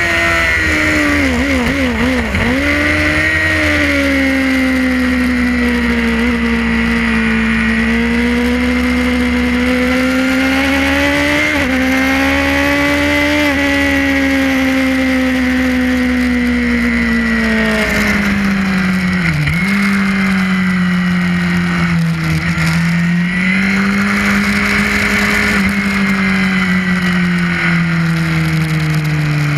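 Suzuki GSX-R race bike's inline-four engine at high revs, heard from onboard, its pitch climbing and falling with throttle and gearchanges. Quick rev blips come about two seconds in, a sharp dip comes just before twenty seconds, and the note falls steadily near the end.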